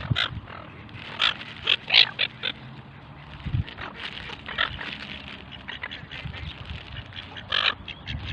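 Pacific black ducks quacking in short, irregular calls, with a brief low thump about three and a half seconds in.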